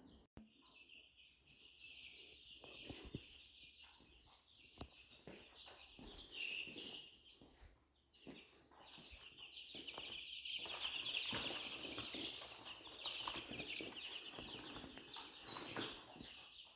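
A flock of chickens chirping in a steady, high chorus that breaks off briefly partway through, with scattered knocks and thumps.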